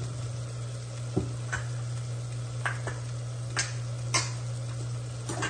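Onion-tomato masala sizzling quietly in an Instant Pot's stainless steel inner pot on sauté, over a steady low hum. About seven short, sharp clinks against the metal are scattered through it, the loudest a little past the middle.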